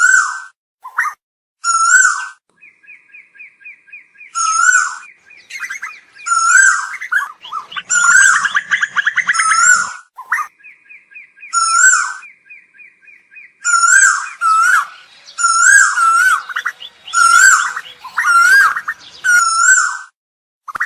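Asian koel calling: short whistled notes that hook up and then drop, repeated every second or two. Two stretches of rapid chattering notes and a dense tangle of overlapping calls near the middle break up the series.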